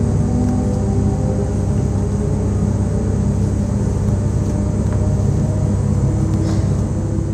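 Z 20778, a Z2N double-deck electric multiple unit, running: a steady low rumble with faint humming tones that drift slightly in pitch.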